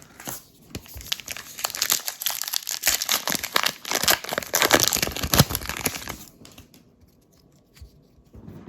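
Foil trading card pack wrapper being torn open and crumpled: dense crinkling for about six seconds that stops fairly abruptly, followed by a few faint ticks of cards being handled.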